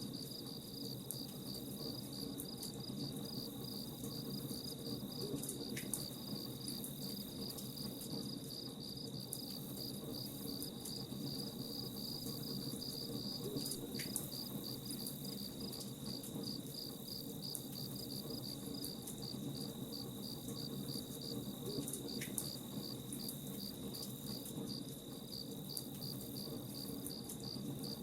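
Crickets chirping in a steady, evenly pulsing high chirr, over a low crackling haze of a campfire with a few faint pops.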